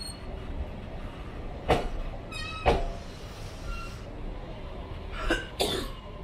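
Taroko Express TEMU1000 tilting electric train rolling out of the station: a steady low rumble from the moving cars, broken by several sharp knocks, two of them close together near the end.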